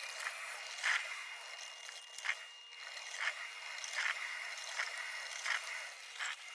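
Drip coffee maker brewing: a steady hiss with a short sputtering puff about once a second as the heated water is pushed up to the brew head.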